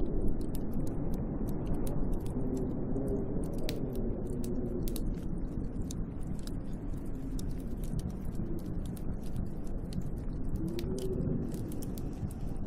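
Snowstorm wind blowing steadily, a deep rushing noise with a faint wavering howl now and then, and sparse light ticks scattered through it.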